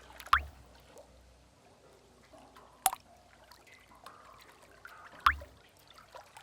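Water drips in a sea cave: three loud drops with a quick rising plink, about two and a half seconds apart, with fainter drips between them.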